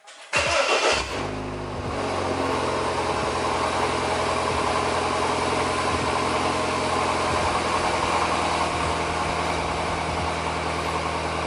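BMW car engine starting up with a brief flare of revs, then settling into a steady idle.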